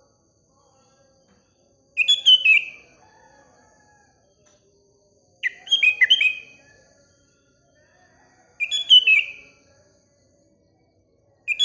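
Sooty-headed bulbul (kutilang) singing four short phrases of quick, falling notes, about three seconds apart. A faint steady high tone runs underneath.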